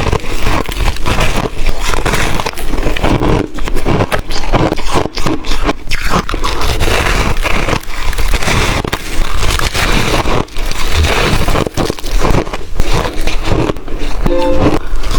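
A person biting and crunching hard chunks of shaved ice, a dense, continuous run of loud cracks and crackles.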